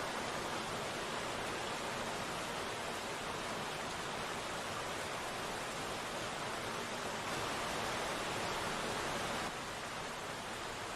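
Steady rain falling, an even hiss of many drops with no separate hits. It swells a little from about seven seconds in, then eases back slightly about two seconds later.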